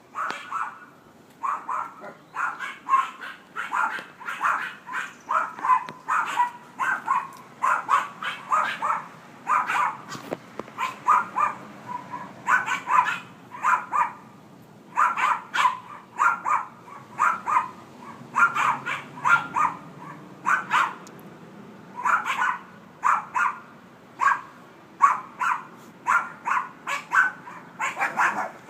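A dog barking constantly, in quick runs of several barks with only short pauses between runs.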